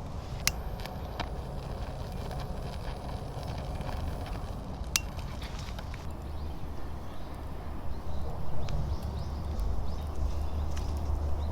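Wood fire burning in a mesh fire stand, with a few sharp crackling pops of the burning wood over a steady low rumble.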